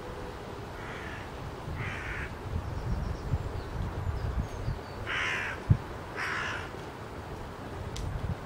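A bird cawing four times, in two pairs about a second apart, the second pair louder, over a low wind rumble on the microphone. A single short thump falls between the last two caws.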